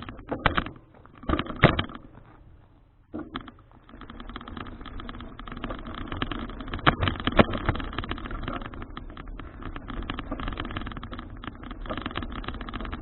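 A few sharp knocks, then from about four seconds in the steady rattle and rumble of a bicycle riding over the road, with a couple of louder jolts.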